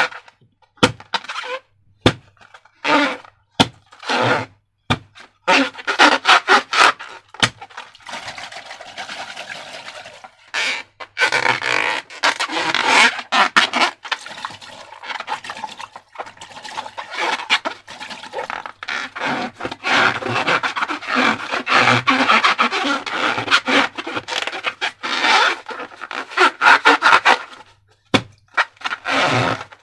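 Slime being squished and worked by hand, a rapid sticky crackling and squelching in irregular bursts, then long continuous stretches, with brief pauses.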